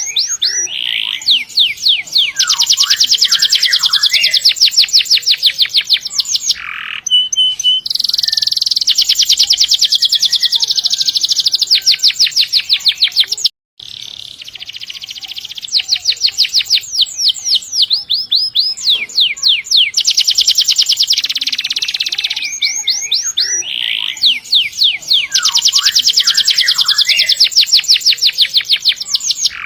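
Domestic canary singing long rolling trills: very fast runs of repeated high notes in long phrases, with short pauses between phrases.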